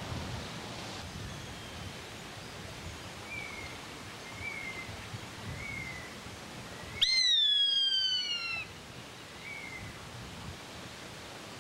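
A bird's loud, clear, falling cry about seven seconds in, lasting under two seconds, over a steady outdoor hiss. Fainter short chirps repeat about once a second before and after it.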